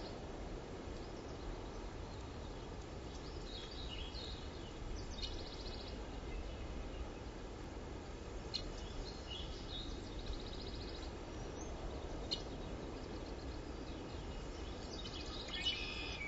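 Birds chirping in short bursts every few seconds over steady low outdoor background noise, with a couple of brief clicks.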